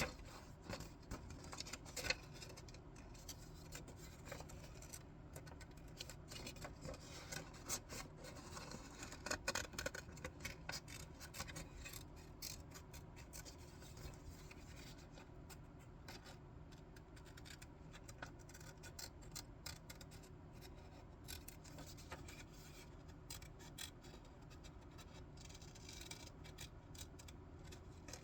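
Scissors snipping through paper in a run of short, irregular cuts, busiest in the first third and thinning out later, with light rustling of the paper.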